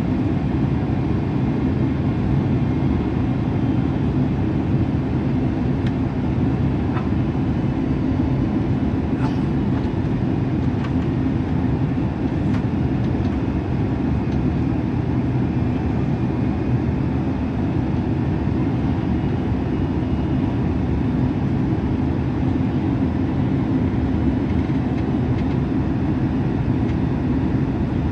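Steady low rumble of engine and air noise heard inside a jet airliner's cabin.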